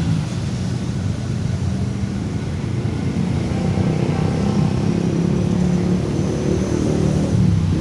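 Diesel locomotive running with a steady low rumble, its engine drone growing stronger about halfway through.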